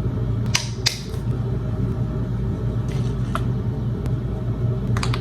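A steady low hum, like a small motor or fan running, with a few short clicks or taps over it.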